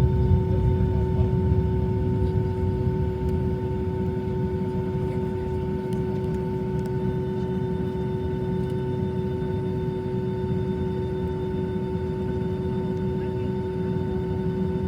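Airplane engines running steadily during takeoff: a low rumble with a constant whine of several steady tones over it. The rumble eases a little over the first few seconds and then holds, and a higher tone joins about halfway through.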